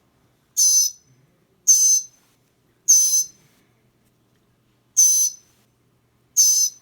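Northern mockingbird giving five short, harsh, raspy calls at irregular gaps of one to two seconds. The calls are loud.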